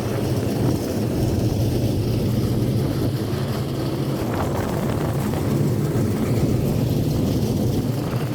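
A steady, even rumble of several dirt modified race cars' V8 engines running together on the track, with no revving up or down.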